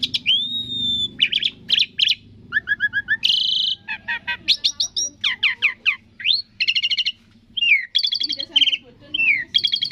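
Asian pied starling (jalak suren) singing a fast, varied song: clear whistles gliding up and down, mixed with rapid rattling trills and chattering phrases one after another.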